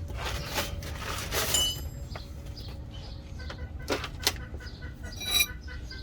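Scattered metallic clicks and clinks of tools and metal parts being handled while working on a truck's front suspension, with a few sharper clinks that ring briefly about a second and a half in and near the end, over a steady low hum.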